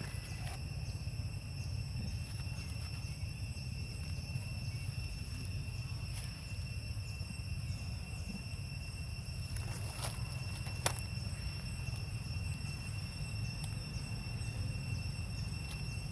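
Steady high-pitched insect drone with faint repeated ticks, over a low rumble, and one sharp click about eleven seconds in.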